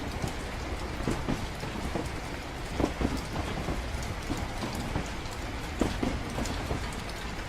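Ambience of steady rain over the low, steady rumble of a moving train, with scattered soft knocks.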